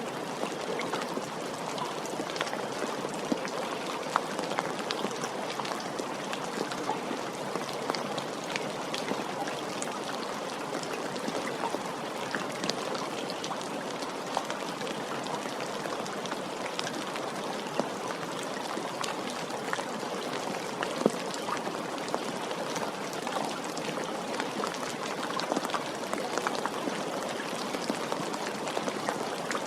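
Steady rainfall with many individual drops pattering on a surface, an even wash of sound with scattered small sharp drop hits.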